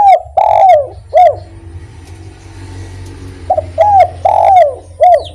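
Spotted dove (derkuku) cooing its 'kuk 1' song: two phrases of three or four coos, each with one longer note that slides down in pitch, the second phrase about three and a half seconds in.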